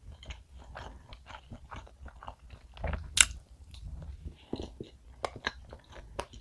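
Close-miked chewing of a soft chocolate castella spread with strawberry-raspberry jam: moist mouth sounds and small clicks, with one sharper click about three seconds in.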